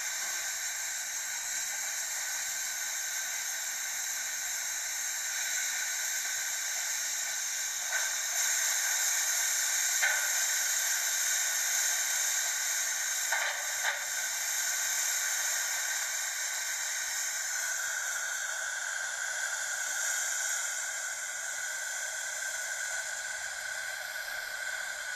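WashTec automatic car wash spraying water: a steady hiss of the jets, with a few brief knocks between about 8 and 14 seconds in.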